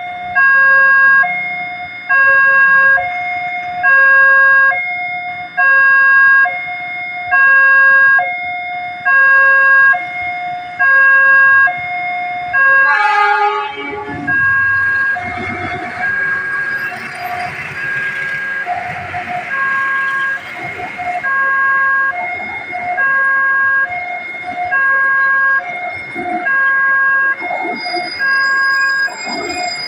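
Railway level-crossing warning alarm sounding: an electronic two-tone chime that alternates steadily, with a louder pulse about every two seconds. About 13 seconds in, a brief falling sound gives way to a broad rushing noise for several seconds, typical of a train passing over the crossing, while the alarm keeps sounding.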